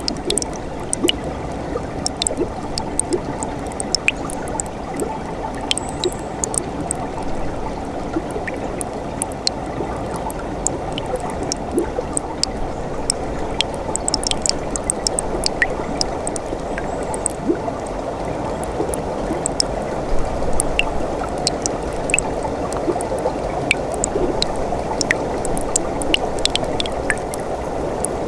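Winter mountain stream running, a steady burbling wash of water with many small splashes and drips.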